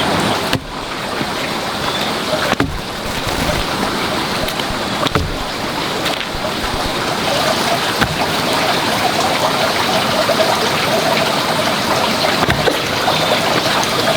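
Steady rushing of flowing water, like a stream, with a few sharp knocks at intervals.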